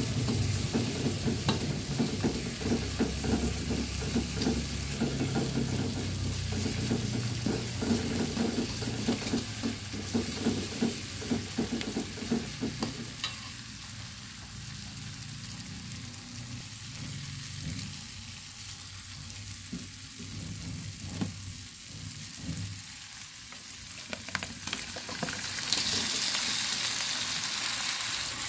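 Food frying in a pan and being stirred, with a steady sizzle and many short clicks and scrapes of the stirring utensil. The frying is louder in the first half, eases off through the middle, and a brighter, louder sizzle starts near the end.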